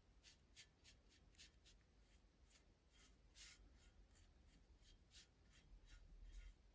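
Faint, quick scratching strokes, irregular, about two or three a second, like light hand scraping or rubbing.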